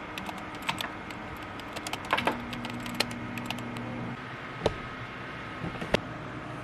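Scattered light clicks and taps of small objects being handled, with a steady low hum for about two seconds in the middle and two sharper knocks in the second half.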